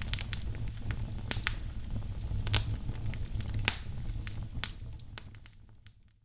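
Wood fire crackling in a fireplace: a low steady rumble with sharp, irregular pops, fading out over the last second or so.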